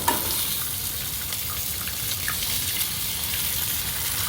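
Bacon frying in a pan: a steady sizzle with small crackles and pops.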